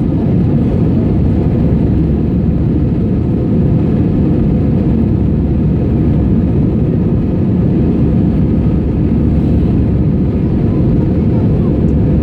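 Airbus A320 jet engines running at takeoff power, heard inside the passenger cabin from a window seat: a steady, loud, low roar that holds even throughout.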